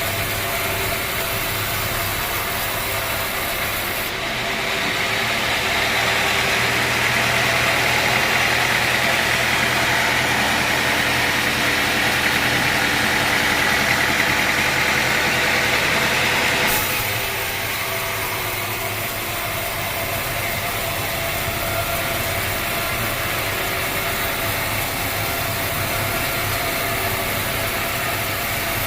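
Sawmill machinery running with a steady mechanical hum, growing louder and brighter for a long stretch in the middle before dropping back.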